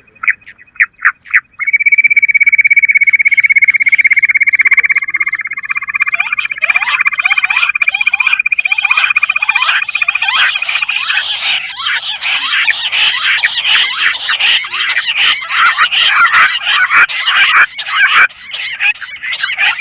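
Bush quail calling: a few short notes, then a long, rapid, high trill held for about nine seconds, then a dense chorus of many overlapping calls, as of several birds calling together.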